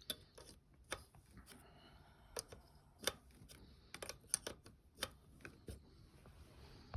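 Scattered light clicks and taps at irregular intervals, small parts being handled and worked while new pilot tubing is fitted to a boiler.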